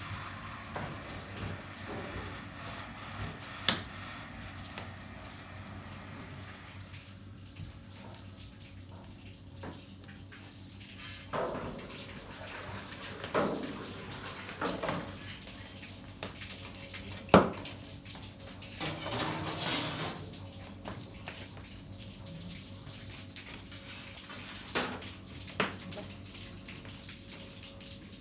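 Whey splashing and trickling in a copper cheese cauldron as the last of the curd is fished out, with a few sharp metal knocks and clanks.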